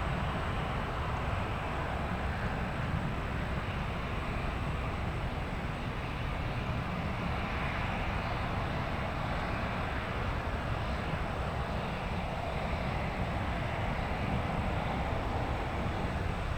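Jet airliner engines heard from a distance as a steady rumble and roar, with no change in pitch and little change in loudness.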